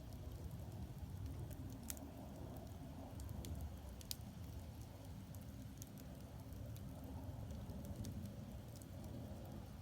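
Firewood burning in an agungi, a Korean traditional wood-fired firebox: a steady low rumble of the fire with scattered sharp crackles and pops, the clearest about 2 and 4 seconds in.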